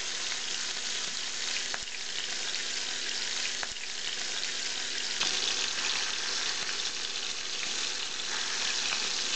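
Raw chicken pieces sizzling as they fry in hot oil in a frying pan, a steady hiss with a few light ticks about two, four and five seconds in.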